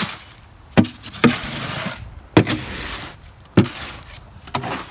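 Concrete being mixed by hand: a tool strikes the mix with five sharp knocks, each followed by a gritty scrape as it is dragged through.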